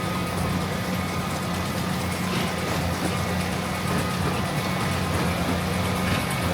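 Heavy farm machinery's diesel engine running steadily under load, a constant low drone with a faint steady whine above it.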